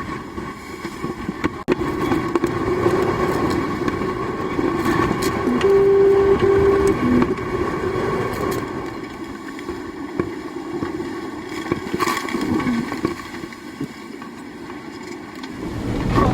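Racing yacht under way: a steady rush of water and wind with a constant hum running under it, and two short electronic beeps about six seconds in.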